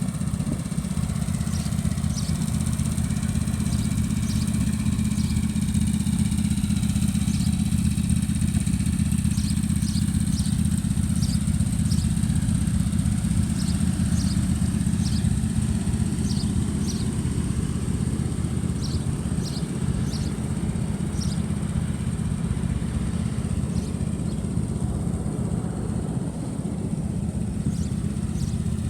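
Walker zero-turn mower's 20 HP Kohler Command V-twin engine running steadily at an even speed.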